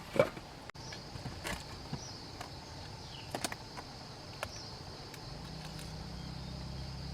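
Steady high insect buzz of woodland ambience. It is broken by a sharp knock just after the start and a few lighter clicks and taps, and a low steady hum comes in about five seconds in.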